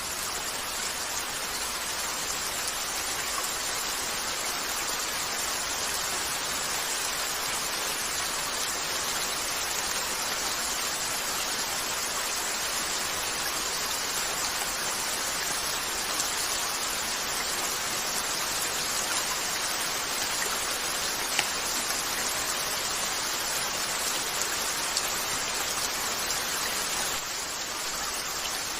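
Steady rain falling, an even hiss, with a few faint sharp clicks over it; slightly softer near the end.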